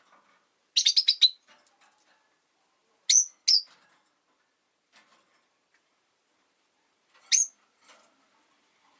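Rosy-faced lovebirds giving shrill, piercing calls: a quick run of about five calls a little under a second in, two sharp calls around three seconds in, and one more after seven seconds, with faint clicks in between.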